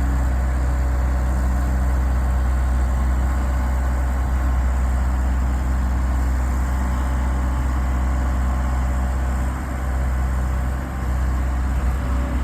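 Heavy diesel engine running steadily with a strong low hum, dipping briefly about ten seconds in.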